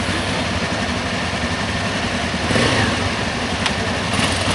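Motorcycle engine running steadily under a broad rushing noise, getting briefly louder about two and a half seconds in.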